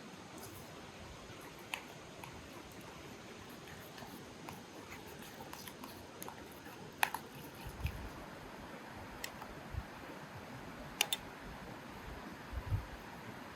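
Scattered light clicks and taps, the sharpest about 7 and 11 seconds in, with a few soft low thumps, over a steady background hiss.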